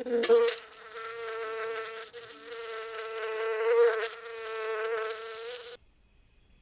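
An insect buzzing in a steady, high-pitched hum that wavers slightly, stopping abruptly near the end.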